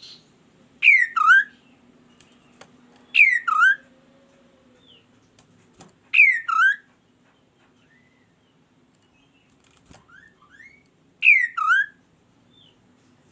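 Kaso-kaso bird calling. It gives four loud two-note calls, each a quick falling whistle followed by a lower swooping note, a few seconds apart, with faint short chirps between.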